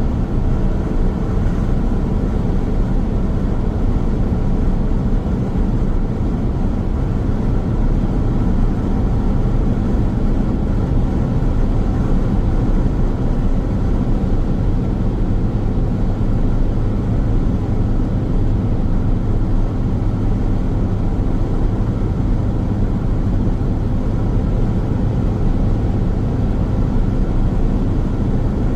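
Car driving along a highway: steady road and tyre noise with engine hum, heaviest in the low end and unchanging throughout.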